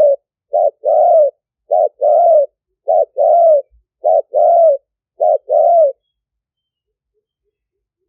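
Spotted dove cooing: a run of two-part phrases, a short coo followed by a longer arched coo, repeated a little over once a second about five times and stopping about six seconds in. It is the call of a decoy dove used to lure wild spotted doves.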